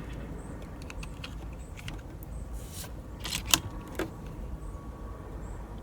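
A few short metallic clicks over a low steady rumble, the sharpest about three and a half seconds in: an air rifle being handled and readied between shots.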